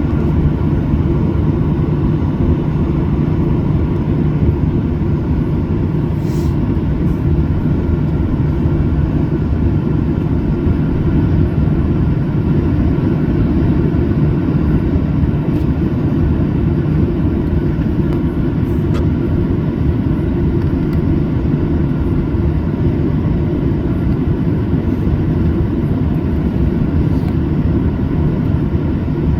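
Steady cabin noise of a Boeing 737-800 in flight: the drone of its CFM56 turbofan engines and the rush of air past the fuselage, heard from inside the cabin. A few faint ticks sound over it.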